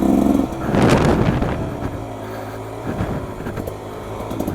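Beta XTrainer 300 two-stroke dirt bike engine running on the trail, revving up briefly about a second in, then settling to lower revs.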